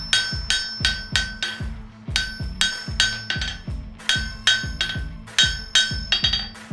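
Blacksmith's hammer striking metal on an anvil in a steady rhythm, about two to three blows a second with a brief pause about two seconds in, each blow ringing with a clear metallic tone.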